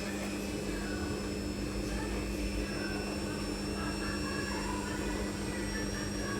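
Steady low machine hum with thin high-pitched whines over it, and faint voices in the background.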